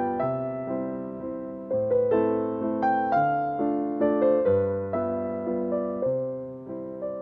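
Background music: slow, gentle piano playing chords, each struck note fading away before the next.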